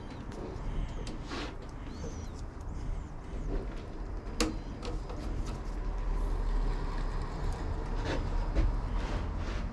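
Scattered clicks and knocks of tools and metal parts being handled, over a low rumble, with one sharp click a little before halfway.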